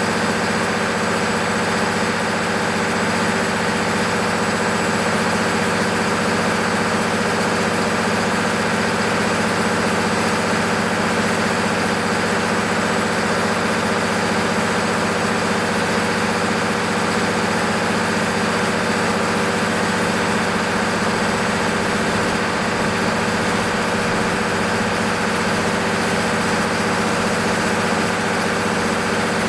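MEP-006A 60 kW military generator set's six-cylinder diesel engine running steadily at constant speed, freshly overhauled and under load test.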